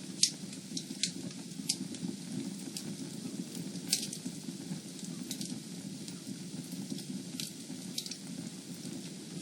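Fireplace fire burning with a steady low rumble and scattered sharp crackles and pops, the loudest just after the start and another about four seconds in.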